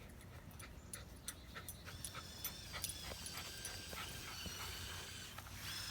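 A dog whining in a thin, high, wavering tone, with scattered faint clicks and rustles of the dog searching through the woods.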